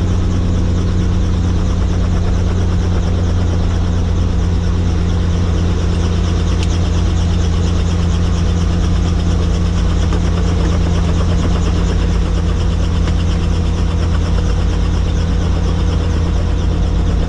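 Helicopter engine and rotor running steadily, a constant low drone with an even hiss above it.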